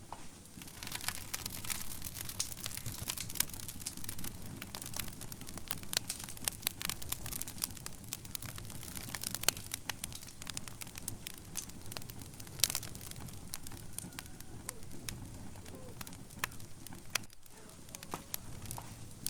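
Wood fire burning in a fireplace, with frequent sharp, irregular crackles and pops over a soft low rumble of the flames.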